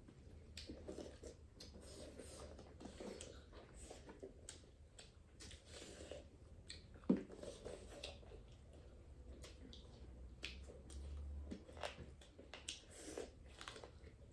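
Faint chewing and mouth sounds of people eating duck curry, with scattered small clicks and one louder click about seven seconds in.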